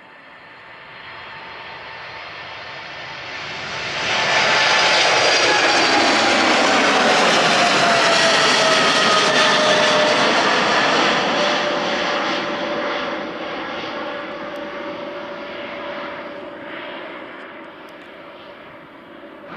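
Boeing 777's GE90 turbofan engines at takeoff thrust passing by. The roar builds over the first few seconds and is loudest for several seconds, with whining fan tones sliding down in pitch as the aircraft goes past. It then fades away.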